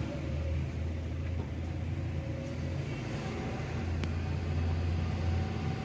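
Suzuki Alto's petrol engine idling with a steady low hum, running while a crankshaft position sensor fault (code P0336) is present.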